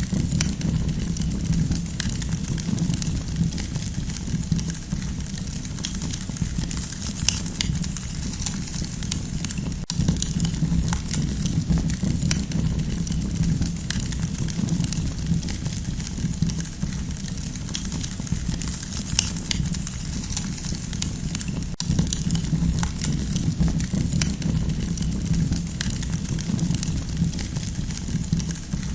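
Campfire crackling: a steady low rumble with many scattered sharp pops and snaps.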